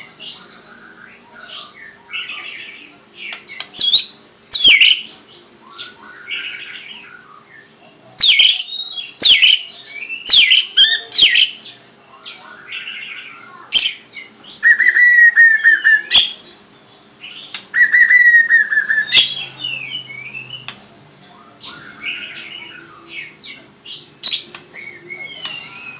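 Pet bird singing in a varied run of short chirps and sweeping whistled notes, with two longer trilling phrases about halfway through.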